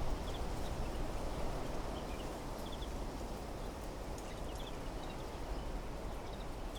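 Wind blowing through trees: a steady rush with a low rumble. Small birds chirp over it in short clusters of two or three high notes every second or two.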